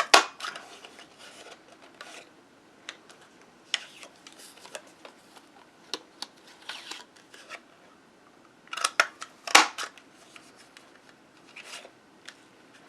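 Craft paper punch clicking as it is pressed through cardstock strips, with a sharp snap near the start and another cluster about nine seconds in, and paper and card rustling and tapping as the strips are handled in between.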